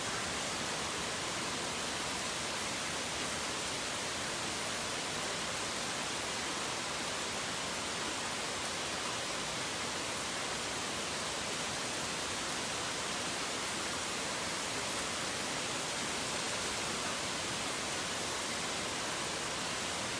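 Heavy rain falling in an even, unbroken hiss, with no single drops, thunder or birds standing out.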